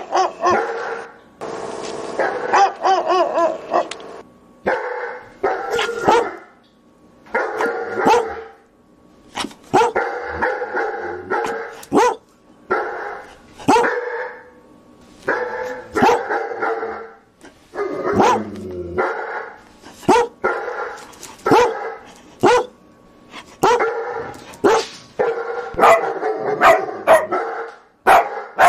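Dog barking over and over in short runs of sharp barks, a run about every one and a half to two seconds.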